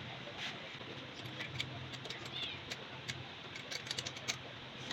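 Scattered light clicks and taps of small parts and tools being handled, over a steady background hiss and hum, with the clicks coming closer together near the end.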